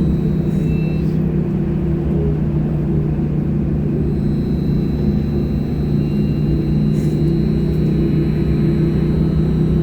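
Sinara-6254.00 trolleybus driving, heard from inside: a steady low rumble from the running gear and road, with a thin high steady whine coming in about four seconds in.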